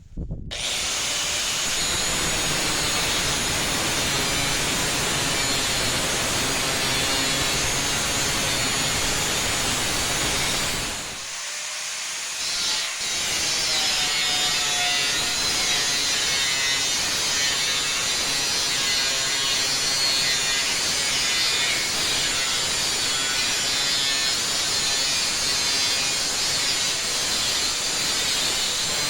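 Handheld electric power tool grinding against a metal barrel in a steady, continuous run, stopping briefly about eleven seconds in and then starting again.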